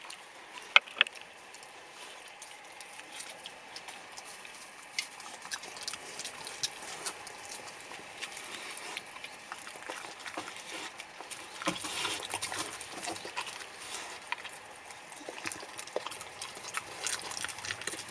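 A pet eating baked sweet potato up close, with irregular chewing and smacking clicks.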